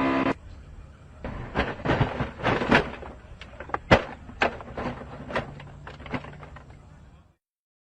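A racing car crashing off the track: a run of irregular sharp bangs and knocks over a low rumble, the loudest about four seconds in.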